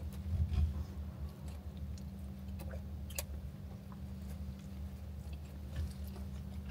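Chewing and biting into a sesame-topped breakfast sandwich with lettuce, egg and bacon: small scattered clicking mouth sounds over a steady low hum.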